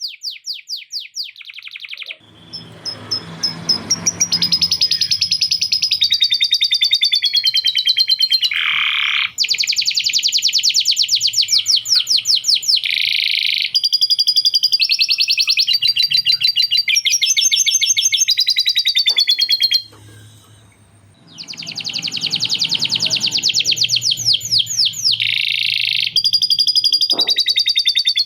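Male domestic canary singing a long, continuous song of fast rolls and trills, loaded with copied lovebird 'ngekek' chatter. The song breaks off for about a second around two-thirds of the way through, then carries on.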